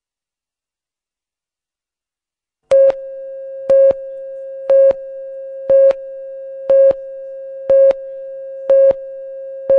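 TV broadcast countdown clock: after silence, a steady tone starts nearly three seconds in, with a louder beep on it once a second, eight beeps marking the seconds counting down.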